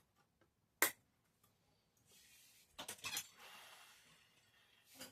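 Model railway sounds: a sharp click about a second in, then a few seconds of faint rushing clatter with a cluster of clicks, and another click near the end.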